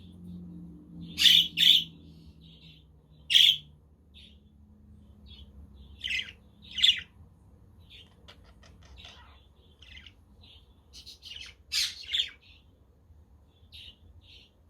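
Budgerigars (parakeets) chirping, with about half a dozen loud, short, sharp calls and softer chirps in between.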